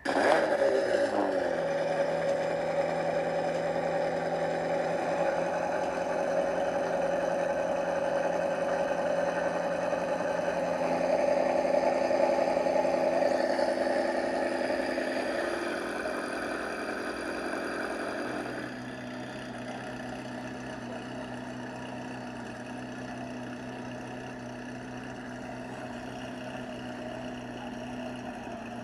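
Ferrari engine sound: it starts abruptly, runs steadily at raised revs, then eases down in two steps, about halfway through and again a few seconds later, to a quieter steady idle.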